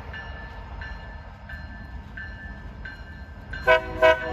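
Approaching freight train's diesel locomotives with a low rumble under a bell ringing steadily, about three strokes every two seconds. Near the end the locomotive horn sounds loudly, a chord of several tones.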